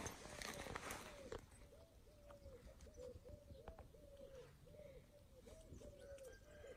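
A bird calling faintly in a steady run of short rising-and-falling cooing notes, about three a second. Scratchy rustling noise in the first second or so.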